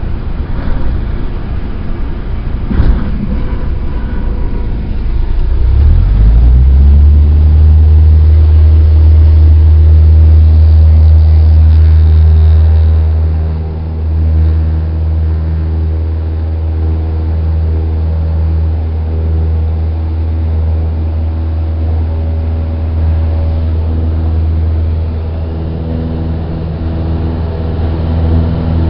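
Cessna 172's four-cylinder piston engine and propeller heard from inside the cabin. About six seconds in, power comes up to a loud, steady drone. Roughly halfway through it eases back a little and holds steady.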